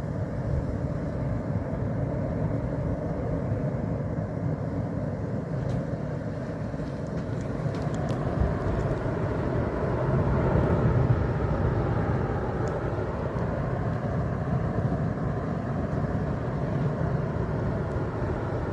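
A motor vehicle's engine running steadily with road noise, swelling slightly about halfway through.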